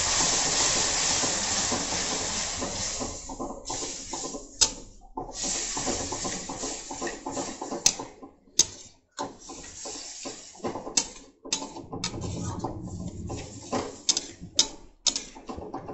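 Curd just added to a fried onion-and-spice masala, sizzling and hissing in a hot metal kadhai. The hiss eases after about three seconds. A metal spatula then scrapes and clicks against the pan every so often as the mixture is stirred continuously.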